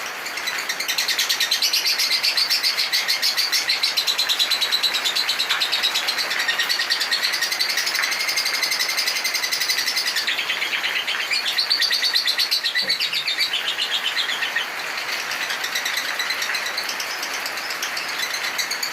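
Lovebird singing its long-duration chattering song, a continuous run of rapid, high-pitched notes. It grows louder about a second in and eases off a little at about fourteen seconds.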